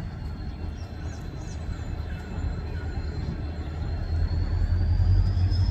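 Express passenger train running into a station, a deep rumble growing steadily louder as it nears. A thin, steady high whine sounds over the rumble and rises slightly in pitch near the end.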